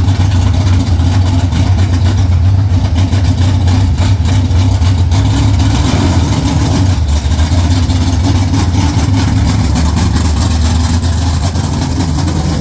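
Vehicle engine running steadily at idle, a deep even hum.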